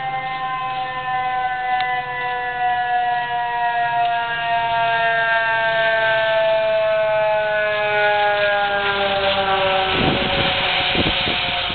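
A siren wailing, its tone sliding slowly down in pitch over about ten seconds. A few dull thumps and a rising hiss come in near the end.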